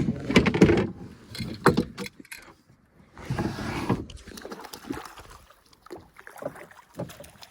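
Fishing gear knocking and rattling in a canoe while a landing net is fetched for a hooked fish, with a short rush of noise about three seconds in.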